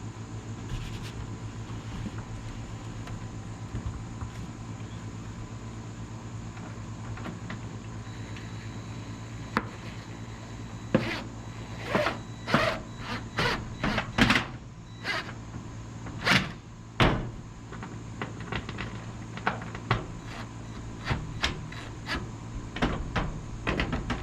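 Work noise: a run of irregular sharp knocks and bangs, a dozen or more starting about halfway through, over a steady low hum.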